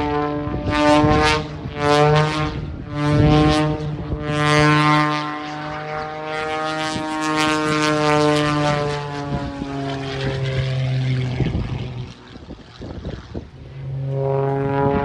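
Aerobatic propeller airplane's piston engine droning loud and harsh overhead, surging several times in the first few seconds as the throttle changes. The pitch drops as it passes, it fades for a couple of seconds near the end, then comes back.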